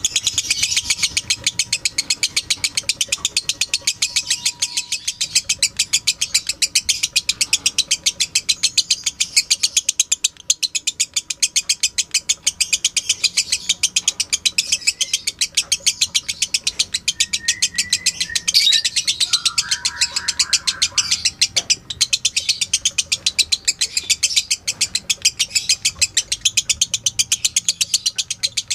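Lovebird chattering in a long, unbroken high-pitched stream of rapid repeated notes, the drawn-out 'ngekek' song used as training audio for other birds.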